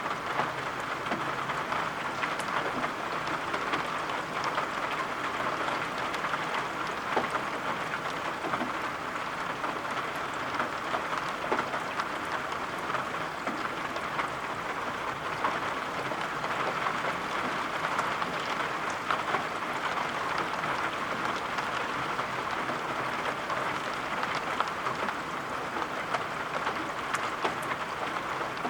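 Steady rain falling: an even hiss, sprinkled with scattered sharp taps of individual drops.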